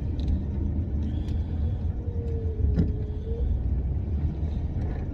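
Steady low rumble inside a Dodge Charger's cabin as the car drives slowly, with a single sharp click near the middle.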